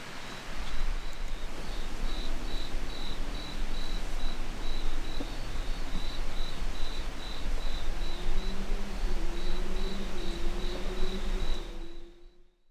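Autumn insects, crickets, chirping in a steady high-pitched pulse of a few chirps a second over a low rumble, with a faint tone slowly rising in the second half; everything fades out near the end.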